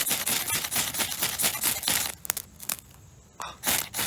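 Rapid, repeated scraping strokes of a fire-starting rod being struck to throw sparks onto root-ball tinder, trying to get it to ignite. The strokes stop for about a second and a half past the middle, then start again near the end.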